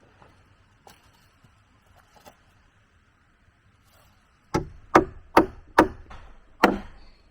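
Heavy blows of a tool striking wood: a couple of faint knocks, then five loud, sharp strikes about half a second apart in the second half.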